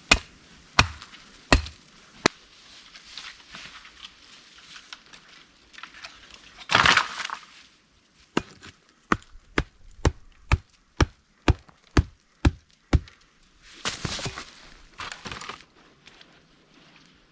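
Repeated chopping blows on wood: a few blows under a second apart at first, then a quick run of about two blows a second, broken by two longer rough noises about seven and fourteen seconds in.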